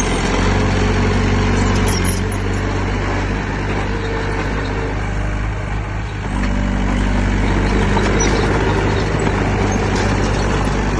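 Heavy diesel engine of earthmoving machinery running steadily, dipping briefly about six seconds in and then picking up again.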